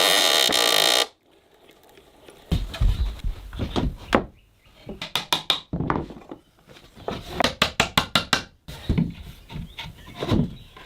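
A loud, steady rushing noise that cuts off about a second in. It is followed by a run of wooden knocks and taps, some coming quickly one after another, typical of hand-tool work fitting timber pieces together.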